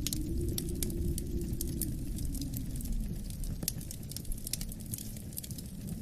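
Wood fire crackling in a fireplace with many irregular sharp pops, over a low rumble of wind that swells in the first couple of seconds and then eases.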